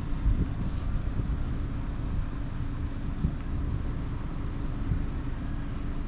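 Steady low buzzing hum of a colony of honey bees around an open hive, with a few soft knocks.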